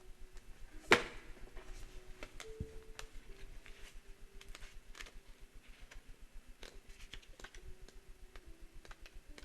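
A sharp tap about a second in, then scattered light clicks and taps of oracle cards and a guidebook being handled on a table, over a faint steady hum.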